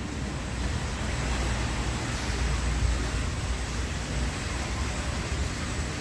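Automatic car wash machinery running with a steady low rumble and a faint hiss.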